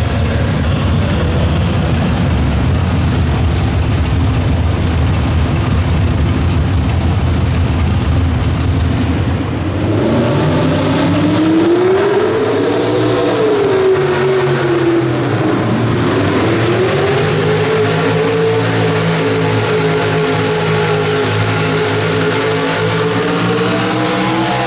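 Pro Street two-wheel-drive pulling truck's engine running hard at high revs for about the first ten seconds. Then the note drops and becomes clearer, the revs rising and falling a couple of times before holding at a steady running speed.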